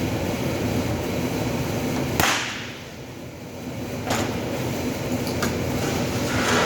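Sharp cracks of a stud welder firing over a steady workshop machine drone: one loud crack about two seconds in, then shorter, softer bursts near four seconds and near the end.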